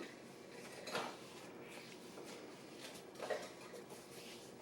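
Faint handling noises on a kitchen counter: two brief light knocks, one about a second in and another just past three seconds, over low background.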